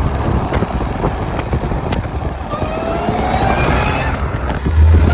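Audi S5 fitted with an aftermarket titanium cold-air intake, accelerating: the engine and intake note climbs steadily in pitch from about halfway in, breaks off, and a loud low drone returns near the end.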